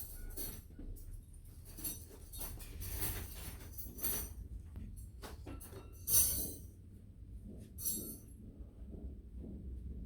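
Irregular small clinks, taps and scrapes of tools and small metal parts being handled at a repair bench, with the loudest clink about six seconds in, over a steady low hum.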